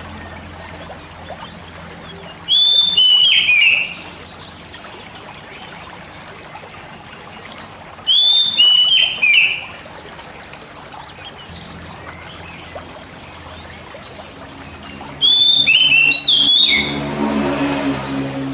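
Oriental magpie-robin (kacer) singing three short bursts of clear whistled notes, each note sliding down in pitch, separated by pauses of several seconds. A brief hissing wash joins the last burst near the end.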